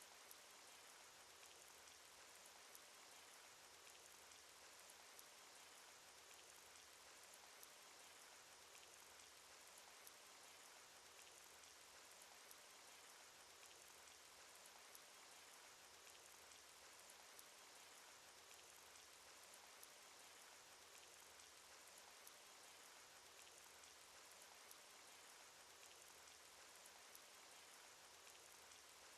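Faint, steady cartoon rain sound effect: an even hiss of rainfall with many small individual drop ticks scattered through it.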